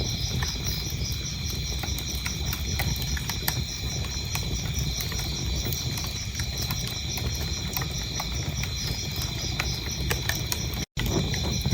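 Wood fire crackling and popping over a low steady rumble, with crickets chirping in a fast, even pulsing trill. The sound cuts out completely for an instant near the end.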